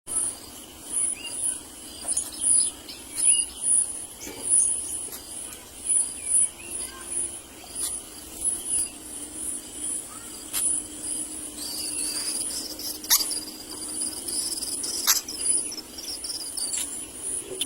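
Insects chirping with a high pulsing note repeated a few times a second, joined by a second steady high trill in the later part, with a few sharp clicks.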